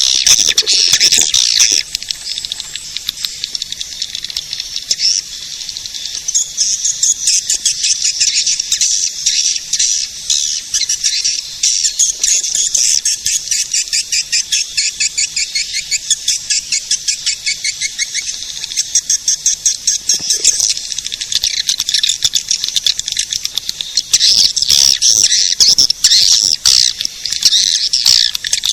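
Swiftlet lure call: a dense, continuous chatter of high swiftlet chirps and twitters in rapid pulsing runs, with almost no low sound beneath it.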